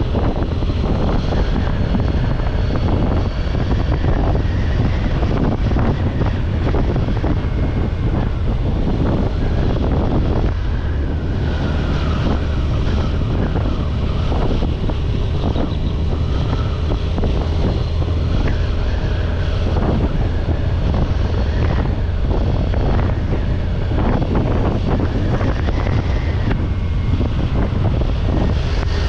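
Kawasaki Ninja 1000SX ridden on the road: its engine runs steadily under a constant rush of wind across the microphone, with no pauses.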